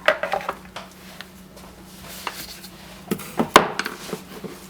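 A paint palette and painting supplies being moved on a table. There is a quick run of clattering knocks at the start and another cluster about three seconds in, over a faint steady hum.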